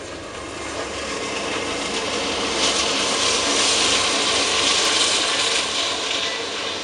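Diesel freight locomotives approaching and passing at speed, their engine rumble and rushing wheel noise building to a peak in the middle as they go by. After them, double-stack intermodal well cars roll past on the rails.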